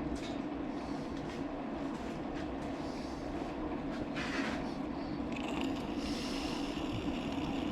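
Metal lathe running steadily while boring out the inside of a small steel part; a higher cutting hiss joins about five seconds in.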